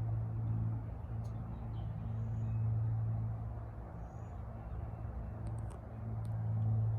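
Steady low mechanical hum, like a motor or engine running, slowly swelling and fading.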